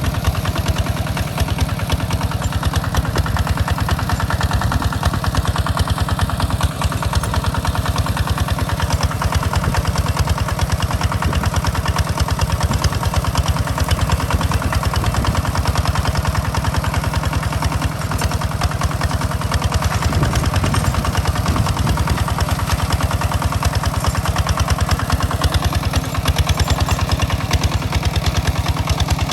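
Hand tractor's single-cylinder engine running steadily with an even, fast firing beat, as when working a rice field.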